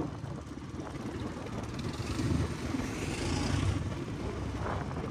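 Dirt-bike engine running with a low rumble, growing louder for a second or two about two seconds in.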